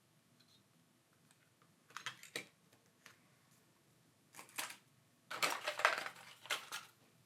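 Small clicks and scrapes from handling tools and parts on a smartphone's frame during a repair. They come in three short clusters, the longest and loudest near the end.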